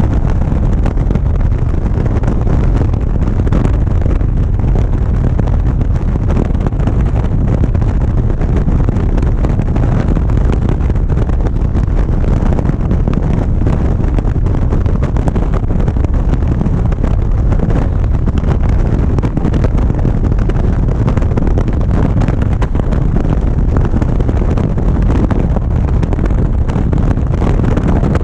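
Wind rushing loudly and steadily over a motorcycle-mounted GoPro's microphone while riding at speed.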